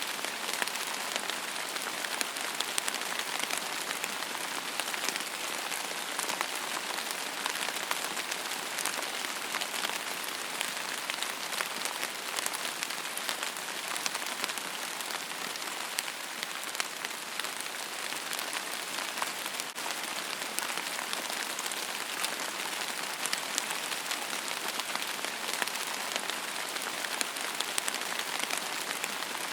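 Steady rain: an even hiss of falling rain with many separate drop ticks, holding level throughout.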